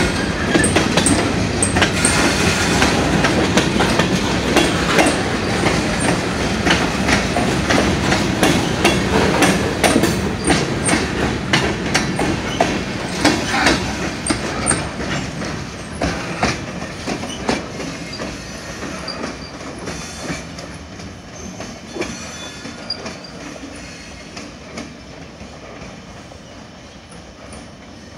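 Freight cars rolling past, their steel wheels clicking over the rail joints. The sound fades steadily as the end of the train passes and draws away.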